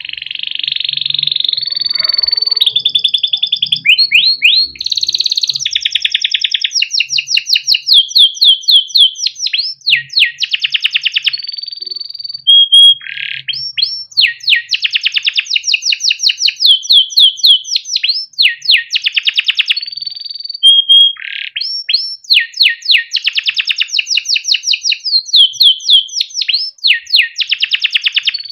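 Male domestic canary singing a long, continuous song of fast rolling trills, each a rapid run of repeated notes, broken now and then by short held whistles.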